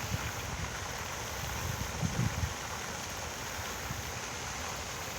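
Steady rush of flowing water, with a few low wind buffets on the microphone about two seconds in.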